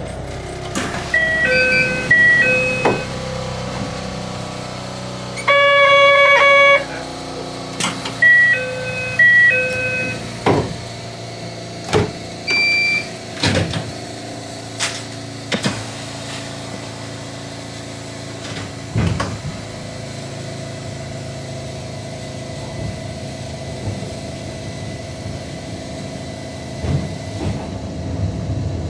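Train interior at a station stop: short electronic chime patterns beep twice, with a louder, longer tone of about a second between them. Several knocks and clunks follow over the steady hum of a narrow-gauge railcar standing with its equipment running.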